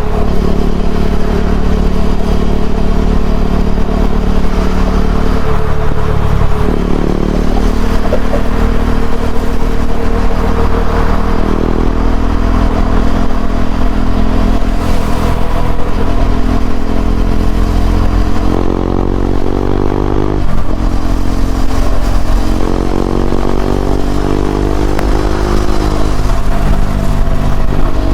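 KTM 390 Duke's single-cylinder engine breathing through an Akrapovic slip-on exhaust while riding. Its pitch holds steady, steps several times, then climbs twice in the second half and drops sharply after each climb as the throttle is opened and eased off.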